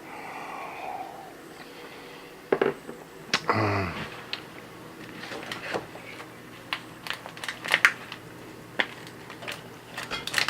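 Light clicks and taps of cutlery and dishes during a meal, coming thicker from about halfway through, with a short low vocal sound that drops in pitch a little past a third of the way in.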